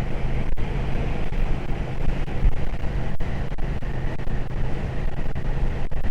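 Triumph Speed Twin 1200's parallel-twin engine running steadily under way, with wind rush over the helmet microphone.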